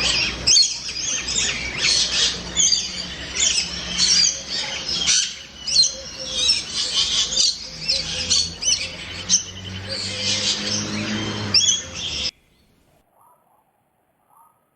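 Dense chorus of many tropical birds chirping and calling over one another, cutting off abruptly about twelve seconds in.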